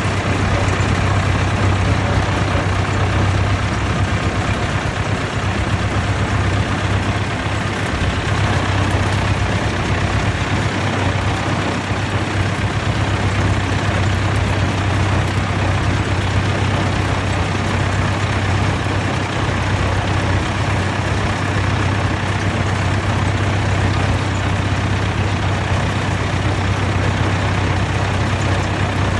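Vintage tractor engine running steadily: a constant low drone over a wash of mechanical noise.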